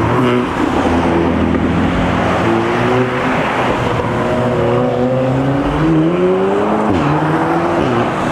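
Performance car engine revving as cars pull away. The pitch climbs in a long rising pull, drops sharply about seven seconds in, then rises briefly and falls again near the end.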